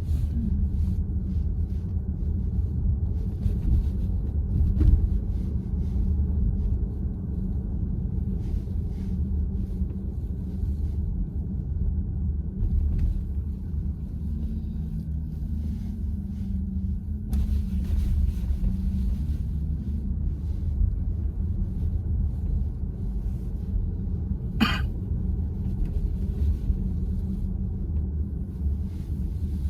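Steady low road and tyre rumble inside the cabin of a moving VW ID.4 electric car. A single brief sharp sound comes near the end.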